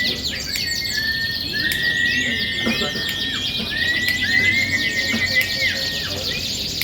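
Several canaries singing at once, rapid rolling trills overlapping with long, held whistled notes.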